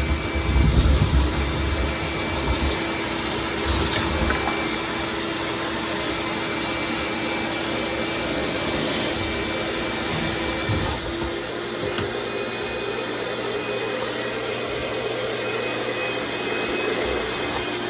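Shop vac running steadily, a continuous rush of air over a motor hum, vacuuming lint from a dryer vent. There are low thuds and rumbles in the first few seconds, and the motor's pitch steps up slightly about eleven seconds in.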